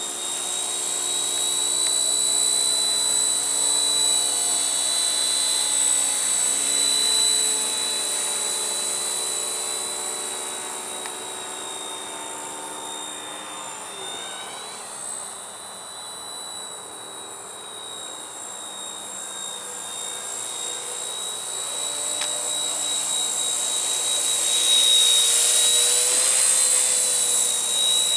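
RCERA Bell 206 Jet Ranger RC helicopter in flight: the high whine of its electric motor and rotors. It grows fainter about halfway through as the helicopter moves away, then louder again, loudest near the end as it comes back.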